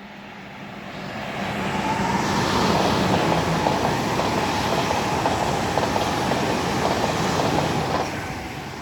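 A pair of coupled Great Western Railway IET trains running under electric power pass at speed. The rushing noise of wheels on rail builds about a second in, holds steady, then eases off near the end.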